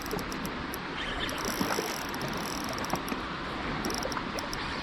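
Steady rushing noise of river water, with a few faint ticks over it.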